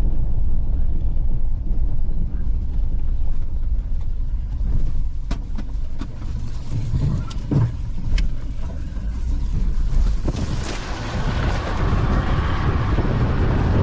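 A vehicle running with a steady low rumble, wind buffeting the microphone, and a few sharp knocks in the middle. The wind noise grows stronger in the last few seconds.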